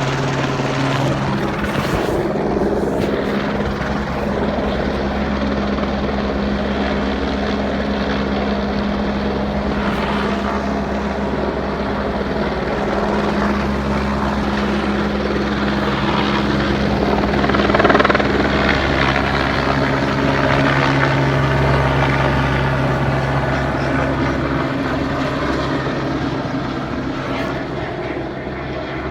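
Helicopter running with a steady drone, briefly louder a little after halfway.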